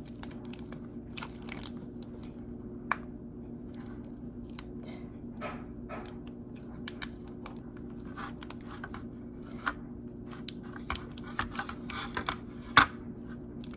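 Scattered small clicks, taps and crinkles from handling a gingerbread house kit and icing, with one sharper click near the end, over a steady low hum.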